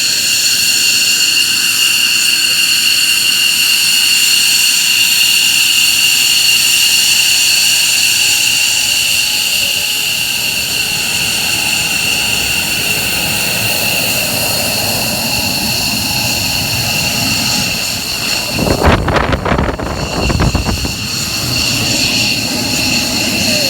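F-15J fighter jet engines running with a steady high-pitched whine. About 19 seconds in, a loud rush of noise swells for about two seconds.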